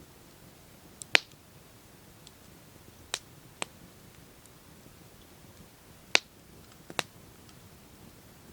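Campfire wood crackling: scattered sharp pops and snaps over a faint steady hiss, with the loudest pops about a second in and about six seconds in.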